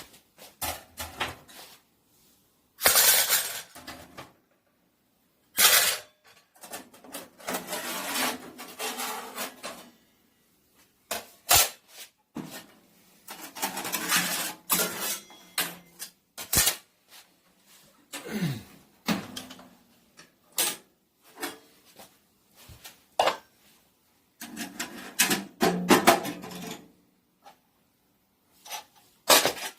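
Intermittent metal clanks, clicks and scraping as the parts of a small wood stove are handled. The sounds come in irregular bursts of a second or two, with sharp knocks between them.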